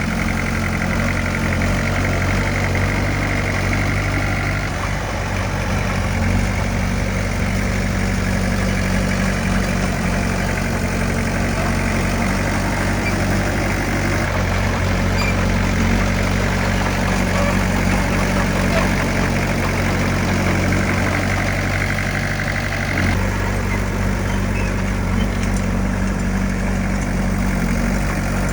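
Heavy diesel engine of earth-moving machinery running steadily, its note shifting slightly about five seconds in and again near the end.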